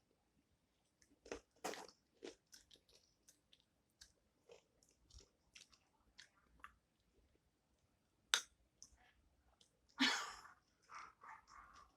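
Close-up chewing and crunching of a hard honeycomb chocolate bar, in irregular crisp crackles, with a sharp crack about eight seconds in and a louder rustly burst near ten seconds.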